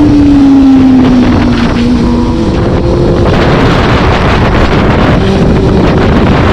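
Vehicle engine on the move with heavy wind rushing over the microphone; the engine note falls over the first two seconds or so as it comes off the throttle, then holds at a steadier pitch.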